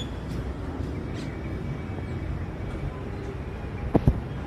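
Outdoor garden ambience: a steady low rumble with a few faint bird chirps, and a brief sharp knock about four seconds in.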